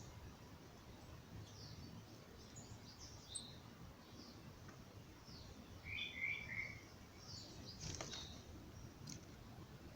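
Songbirds calling: scattered short, high chirps and quick sweeping notes, faint over a low background rumble. About six seconds in there is a louder burst of lower notes.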